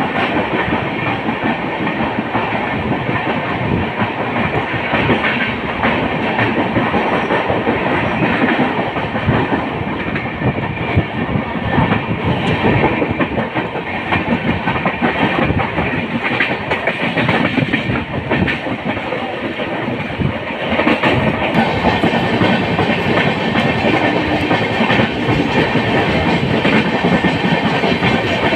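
Konkan Railway Jan Shatabdi Express (train 12052) running, its wheels clattering over the rails with a steady rush of noise.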